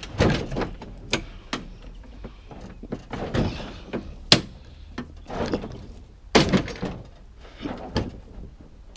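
A run of knocks, clunks and rattles from an object being handled and worked at, coming in several clusters, with one sharp click about four seconds in.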